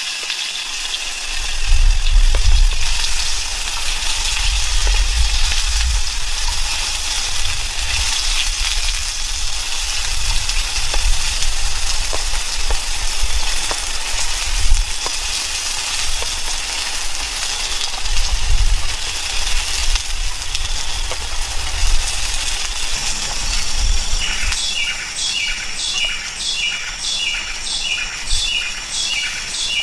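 A steady outdoor hiss with low rumbles; in the last several seconds a bird calls over and over, about two calls a second.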